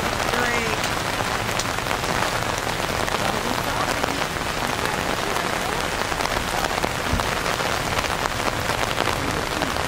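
Heavy rain falling steadily, a dense even hiss of drops hitting nearby surfaces.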